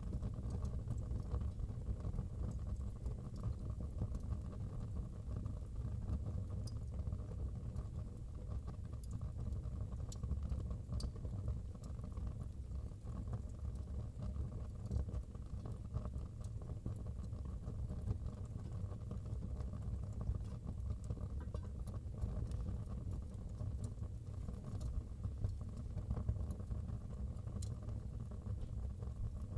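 Wood fire burning in a fireplace: a steady low rumble with scattered faint crackles and pops.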